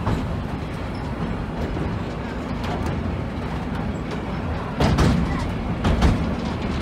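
Open-sided rail carriage running over a steel viaduct: a steady rumble from the wheels on the track, broken by a few sharp clanks, the loudest about five and six seconds in.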